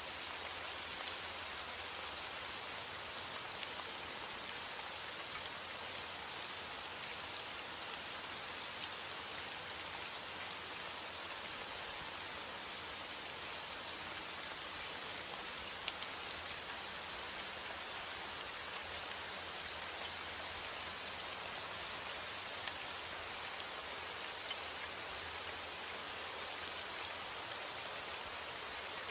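Steady rain falling, a constant hiss with fine scattered drop ticks and no let-up.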